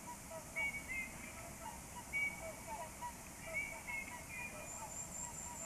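Several birds calling: short pitched call notes repeated every second or so, with a high, thin trill joining near the end.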